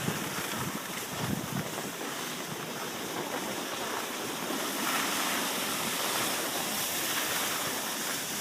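Steady rushing wind noise on the microphone of a camera carried by a skier going downhill, with skis hissing over the snow; a little louder from about five seconds in.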